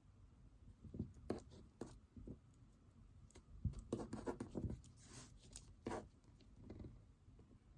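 Pen writing on paper: irregular short scratching strokes, with a denser run of writing about halfway through.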